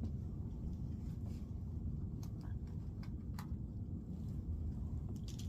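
Quiet low room noise with a few faint, scattered clicks and taps.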